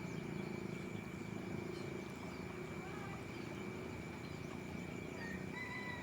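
Outdoor ambience: a steady low rushing noise, with scattered short bird chirps and a thin, steady high whine.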